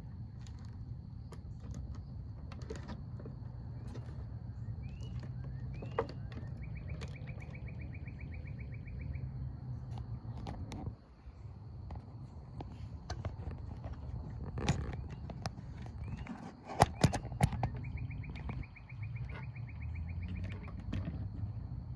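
Outdoor backyard ambience: a steady low rumble and a faint steady high whine, with bird calls, a few short rising chirps and a rapid trill lasting a few seconds that comes twice. Several sharp clicks or knocks stand out, the loudest about 15 and 17 seconds in.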